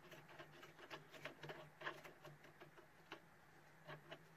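Faint, irregular metal clicks and taps as a bar is handled and wiggled in a freshly reamed, close-fitting bore of a tool head.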